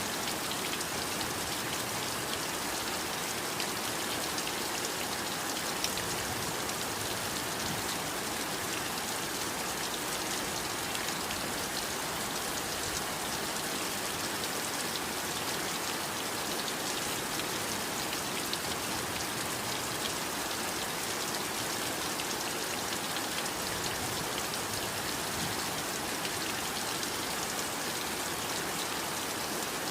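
Heavy rain falling steadily, a dense even hiss with fine drops pattering on surfaces.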